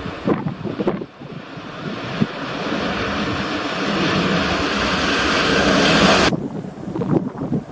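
Jet airliner engines rushing, growing steadily louder as the aircraft nears, then cutting off suddenly about six seconds in. Strong wind buffets the microphone at the start and end.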